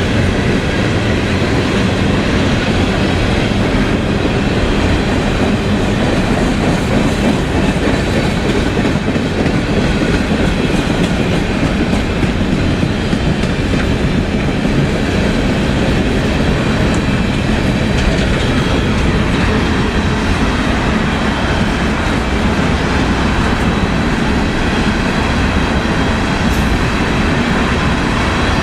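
Train rolling along the rails: steady, loud wheel and car noise with the clickety-clack of wheels on the track, unchanging throughout.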